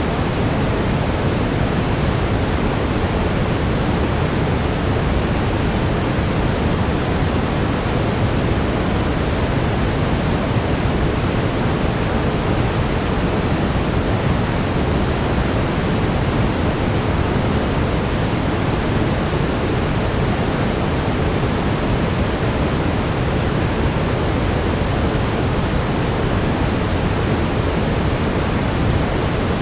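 Steady brown noise, a deep even hiss weighted toward the low end that does not change.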